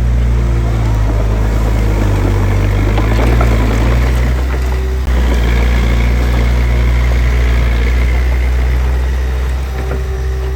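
Diesel engine of earthmoving machinery running steadily under a heavy, low drone, dipping briefly and picking up again about five seconds in.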